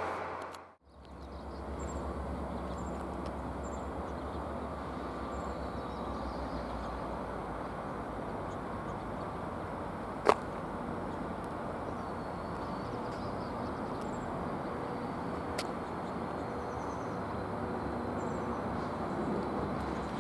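Steady low outdoor rumble with faint high chirps, and a sharp click about ten seconds in.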